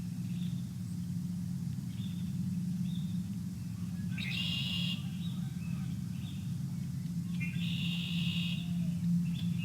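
Songbirds calling around a bird feeder: scattered short high notes, with two longer calls about four and eight seconds in, over a steady low hum.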